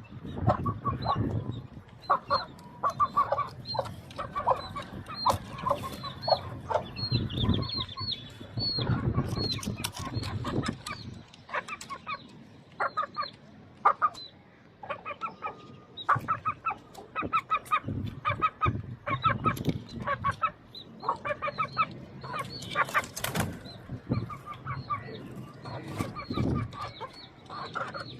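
Aseel chickens clucking and calling in quick short notes, mixed with frequent high chirps and occasional low thumps.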